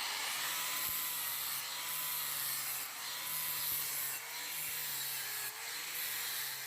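Abrasive rasping on the rail-steel machete blade as it is ground or filed: a steady, dense hiss with slight swells about every second and a quarter.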